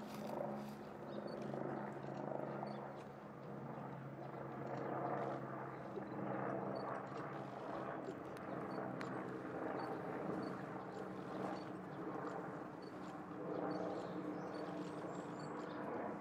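Steady low engine hum under outdoor background noise.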